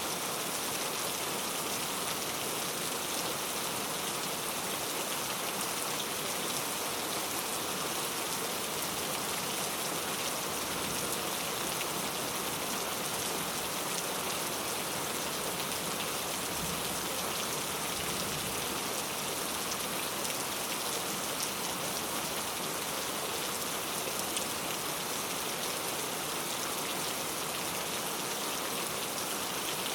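Steady rain falling and pattering on surfaces, a dense even hiss with fine scattered drop ticks.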